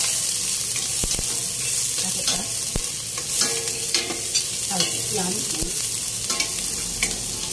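Sliced onion and minced garlic sizzling in hot oil in a stainless-steel pot, stirred with a metal spatula that scrapes and clinks against the pot.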